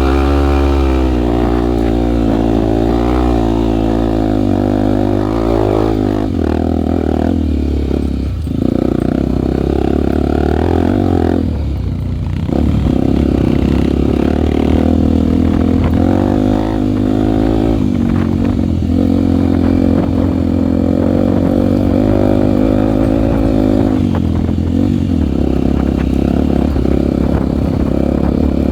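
Honda single-cylinder four-stroke trail bike engine running under way, its pitch rising and falling with the throttle and gear changes. The engine note drops briefly about a third of the way in and again a little before halfway.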